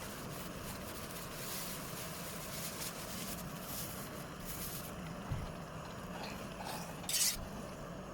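Portable butane camping stove burner running with a steady flame roar, with a short sharp hiss near the end.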